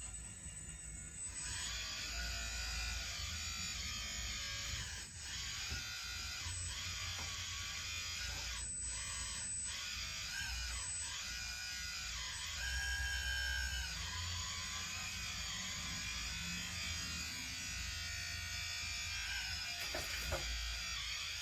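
Small electric motors and gearboxes of a Huina 1580 radio-controlled excavator whining steadily as it pulls a model dump truck, rising briefly under load a few times.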